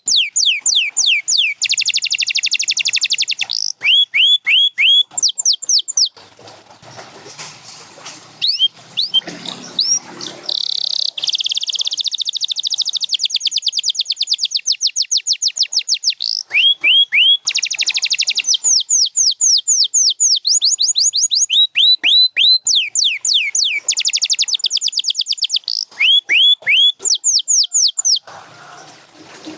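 Domestic canary singing: phrases of repeated, sharply falling whistled notes alternate with fast, rattling trills. The song drops to a quieter pause for a few seconds about a fifth of the way in.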